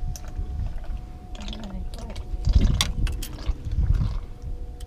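Irregular clicks and rattles of fishing tackle while a fish is being reeled in, over a low wind rumble, with a faint steady hum.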